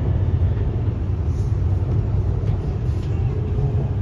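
CRRC Changchun Type-A metro train running, heard from inside the carriage: a steady low rumble.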